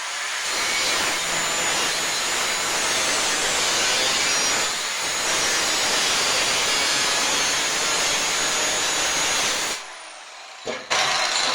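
Power tool cutting into the sheet-steel stove body to open the door, most likely an angle grinder with a cut-off wheel. It runs steadily for about ten seconds, then stops with a brief falling whine as it spins down.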